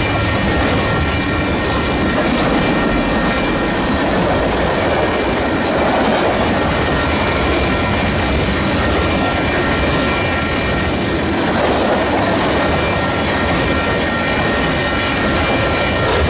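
Freight train rolling past at steady speed: a continuous rumble and rattle of cars on the rails, with a thin, steady high-pitched wheel squeal over it.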